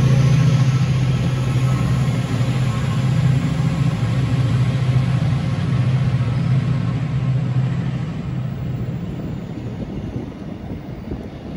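Class 68 diesel locomotive's V16 engine running with a steady low note, fading away after about eight seconds.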